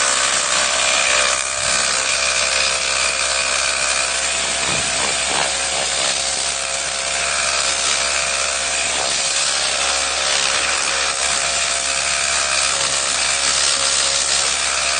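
Tornado compressed-air cleaning gun running continuously, a loud steady hiss of air with a few steady tones in it, as it blows textile cleaner into a car floor mat.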